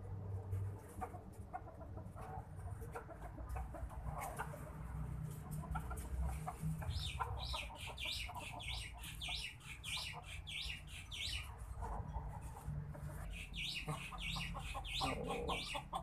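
A bird calling in rapid series of short, high-pitched notes: one run of several seconds starting about halfway through, and a shorter run near the end. Faint clicks and rustling come before them.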